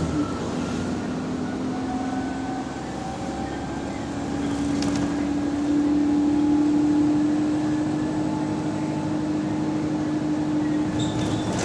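Bus engine and drivetrain running under way, a steady drone with a whine that rises gently in the first few seconds and grows louder about halfway through. The bus has an exhaust leak.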